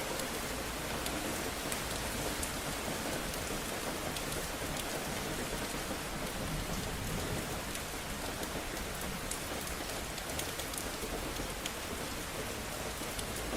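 Steady rain falling on hard surfaces, an even hiss with scattered sharp drop ticks.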